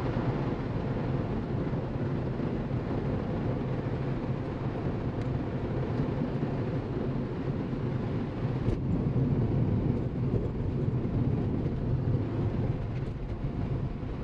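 Car driving at steady speed: an even engine hum under steady road and tyre noise.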